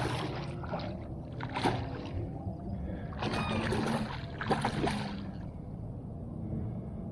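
Water splashing and sloshing in shallow floodwater in several bursts over a steady low rumble, quieter near the end.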